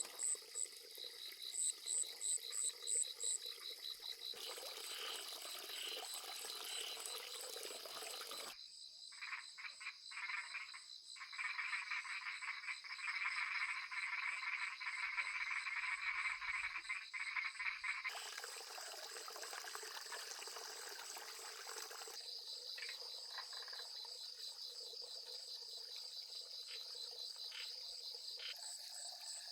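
A night chorus of frogs calling after rain, with insects trilling in fast, even pulses. The mix of callers changes abruptly several times.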